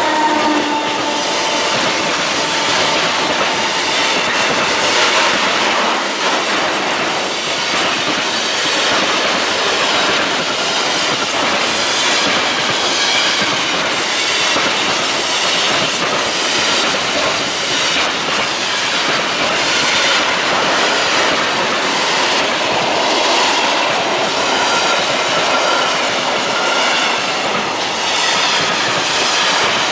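Slow freight train of container and flat wagons rolling past close by: a steady, loud noise of steel wheels on rail, with a rhythmic clatter about once a second as the wheelsets pass and a faint, wavering high wheel squeal.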